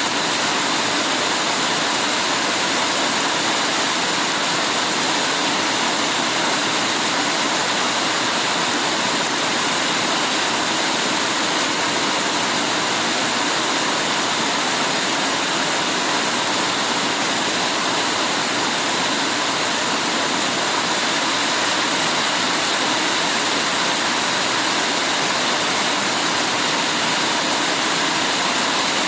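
Heavy rain falling steadily: an even hiss at a constant level, with no separate drops, thunder or other events standing out.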